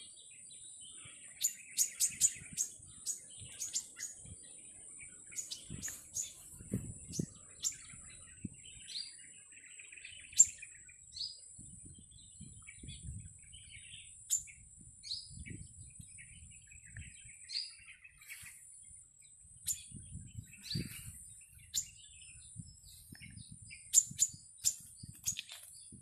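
Small birds chirping: many short, sharp, high chirps at irregular intervals over a steady high-pitched whine, with leaves rustling now and then.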